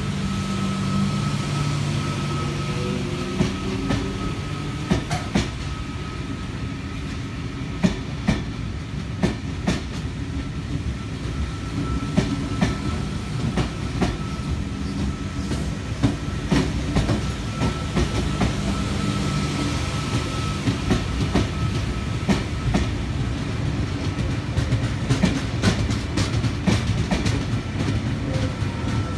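Sydney Trains V-set double-deck electric train rolling slowly past, its wheels clicking irregularly over the rail joints, with a steady low electrical hum and a thin high whine.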